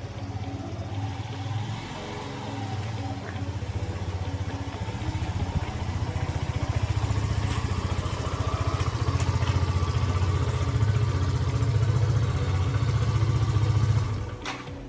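Yamaha FZ-S 2.0 motorcycle's single-cylinder engine running steadily, growing louder a few seconds in and stopping suddenly near the end.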